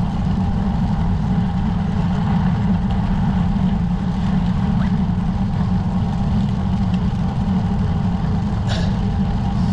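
Steady, loud low rumble of wind buffeting the camera microphone on a moving road bicycle, with one short click about nine seconds in.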